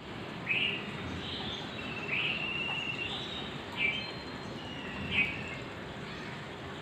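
Bird calls: short chirping notes repeating about every second, over a steady background hiss.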